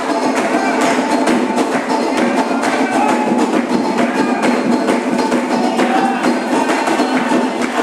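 Candomblé ceremonial music: hand percussion and a struck wooden or metal instrument keep a fast, dense rhythm at a steady level.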